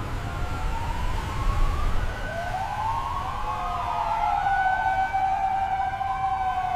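Emergency vehicle siren wailing, its pitch slowly rising and falling, over a steady low rumble.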